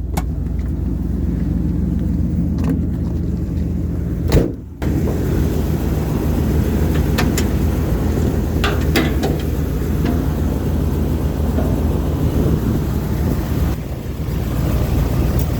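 Motorhome engine idling hot with a steady low hum. A few light clicks and one sharper knock come about four seconds in.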